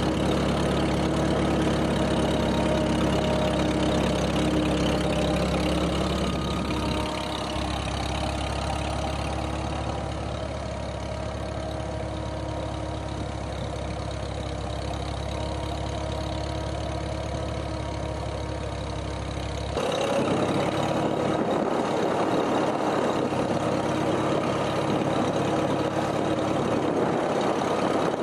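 Tractor engine running steadily. The sound shifts about 7 seconds in and changes abruptly to a brighter, noisier engine sound about 20 seconds in.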